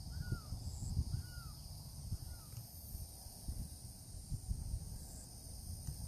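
Outdoor ambience: a bird gives three short arching calls in the first couple of seconds, over a steady high insect drone and an irregular low rumble.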